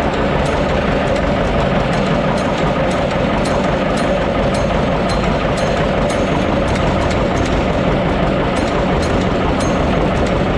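John Deere 720 diesel tractor running at a steady speed, with a regular clatter over an even engine drone.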